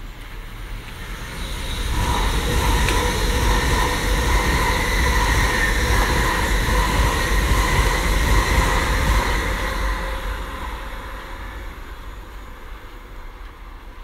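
A long passenger train passing at speed on a main line: its rumble and wheel-on-rail noise build over the first two seconds, hold for about eight seconds with a steady high whine, then fade as it goes away.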